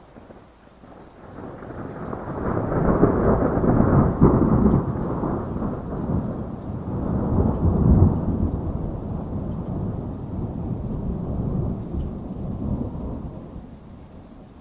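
Thunder rolling over steady rain: one long rumble that builds over the first few seconds, swells twice, then dies away near the end.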